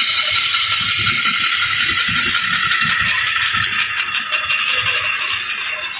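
A workshop machine running steadily with a high, hissing whir and irregular low rattling underneath, easing slightly near the end.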